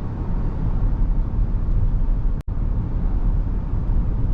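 Steady low road and tyre rumble of a 2023 Rivian R1S Quad Motor electric SUV on the move, heard from inside the cabin, with no engine note. The sound cuts out for an instant about two and a half seconds in.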